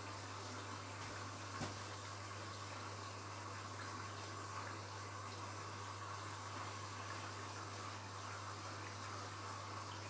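Washing machine taking in water: a steady rush of water filling the drum, with a constant low hum underneath.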